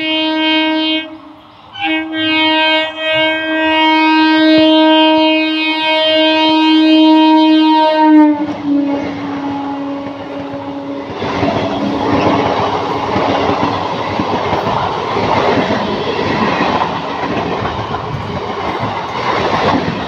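Electric multiple-unit local train sounding its horn, a short blast and then a long one of about six seconds, whose pitch drops slightly as the train comes level. The coaches then rush past close by, with a steady rumble of wheels on the rails.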